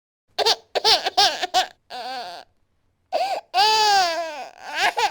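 A baby crying in short, sobbing bursts broken by silent pauses, then one longer wail about three and a half seconds in that falls in pitch, followed by a couple more short cries.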